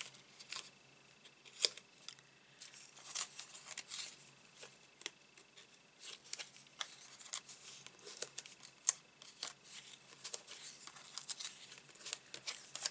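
Dimensional foam adhesive pads being handled and peeled from their backing sheet: faint, irregular small clicks, snips and crinkling paper sounds spread throughout.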